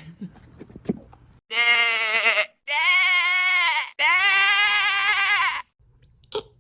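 Three loud bleats in quick succession, each with a quavering pitch, the last one the longest.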